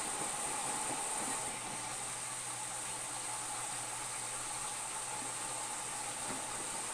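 Whirlpool front-load washing machine running, a steady hissing with a low hum joining after about two seconds.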